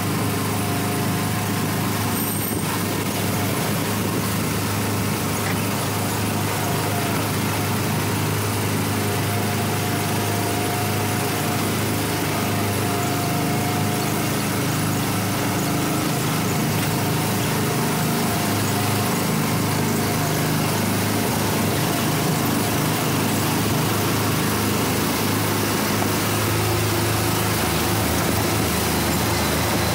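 Small gasoline engine of an Autopia ride car running steadily as the car drives along the track, a constant hum over road and air noise.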